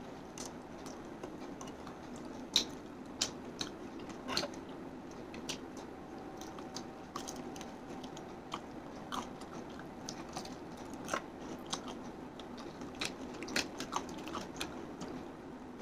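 Close-up chewing and biting of crispy fried chicken, with irregular crunches and clicks from the crisp breading scattered through the chewing.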